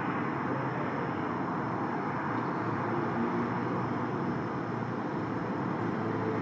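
Mini backhoe's engine running steadily while clearing snow.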